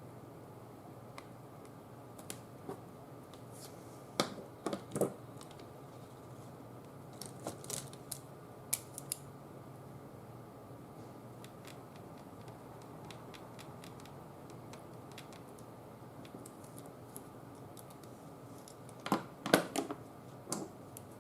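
Scattered small clicks and taps of craft tools and paper being handled on a work table, in short clusters, the loudest near the end, over a steady faint hum.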